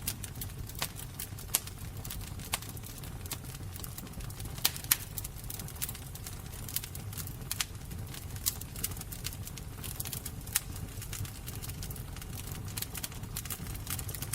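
Fire crackling: a steady low rumble of burning with irregular sharp pops and snaps, a few of them louder than the rest.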